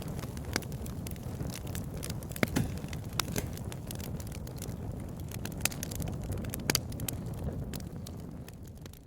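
Wood fire crackling, with frequent sharp pops over a steady low rumble; the sound fades down near the end.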